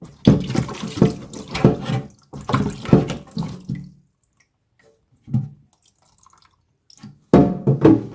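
Water splashing and pouring in irregular bursts, quiet for a few seconds in the middle before another burst near the end.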